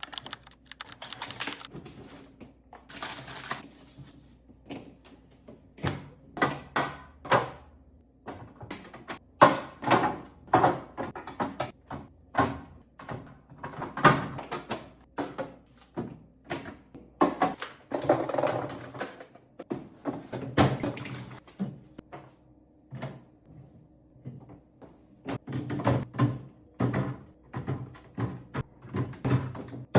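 Irregular knocks and clatter of containers and food items being taken out of and put back into a refrigerator as it is cleaned and organised.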